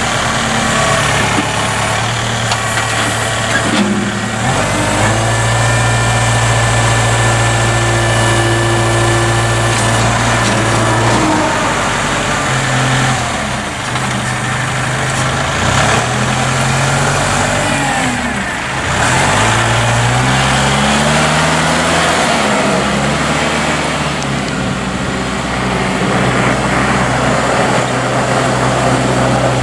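Kubota L4060 tractor's diesel engine running, its speed stepping up and gliding down and up again several times, with dips and rises in pitch in the middle of the stretch.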